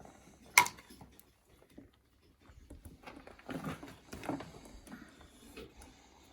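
A sharp click about half a second in, then a few seconds of light clicking and scraping as the stuck throttle cable end is worked loose by hand.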